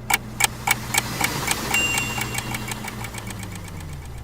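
Mechanical ticking that speeds up from about three to about ten ticks a second over a steady motor hum. The hum drops in pitch near the end and cuts off suddenly.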